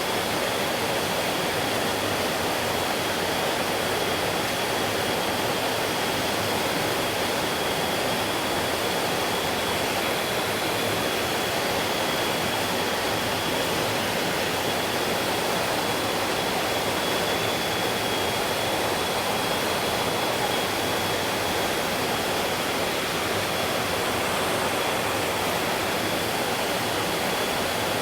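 Mountain stream water flowing over rocks, a steady, even rushing with no breaks. A faint steady high tone runs underneath.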